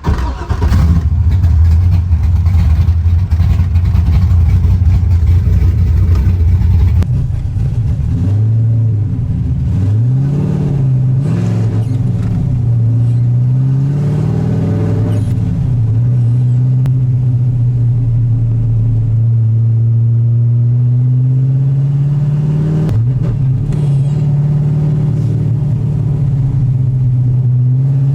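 LS3 V8 in a Mazda Miata being driven: a loud steady engine drone for several seconds, then revs rising and falling a few times, then a steady note held as it cruises.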